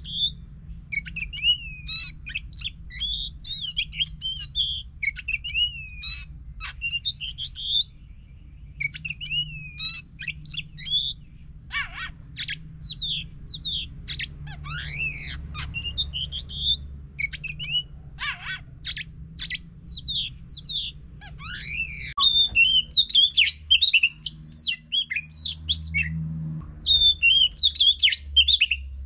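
Oriental magpie-robin (kacer) in full song: a continuous, varied run of whistles, trills and chirps, growing louder and denser in the last quarter. A faint steady low hum lies underneath.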